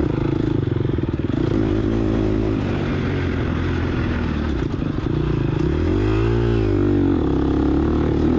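2022 Gas Gas EX250F's single-cylinder four-stroke engine running under load, with the revs rising and falling again about six seconds in.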